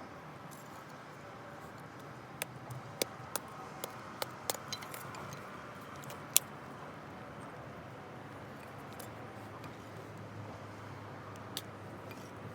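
Wood fire crackling, with scattered sharp pops, a cluster of them a few seconds in and the loudest about six seconds in, over a steady low background.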